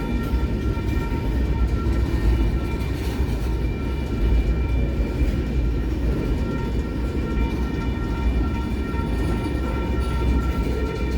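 Train passing on the rails, a steady heavy rumble of cars rolling by, with a steady high ringing tone over it throughout.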